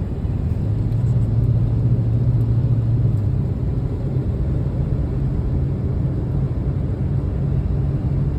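Ford F150 pickup truck driving at a steady pace: a continuous low engine and road rumble with a steady hum.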